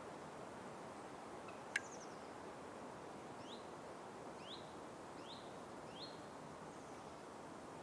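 Forest ambience: a steady soft rushing background, with a single sharp click about two seconds in, the loudest sound. A bird then gives four short, upward-sweeping chirps about a second apart.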